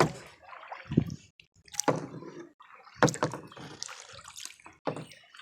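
Kayak paddle blades dipping into the water on alternating sides, with splashing and dripping between strokes, about one stroke a second.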